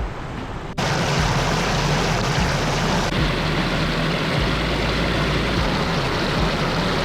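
Mountain creek rushing steadily, a loud, even sound of flowing water that cuts in suddenly a little under a second in.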